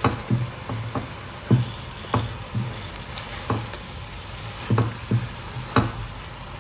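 Spinach and bratwurst sizzling in butter in a stainless steel pot while being stirred with a silicone spatula, with about ten irregular knocks and scrapes of the spatula against the pot.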